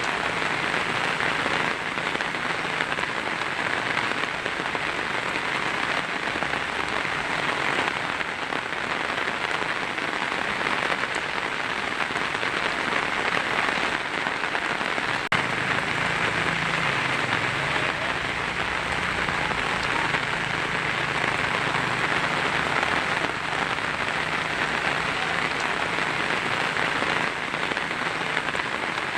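Heavy rain falling steadily on a tin roof, a dense, even patter, with one brief hitch about halfway through.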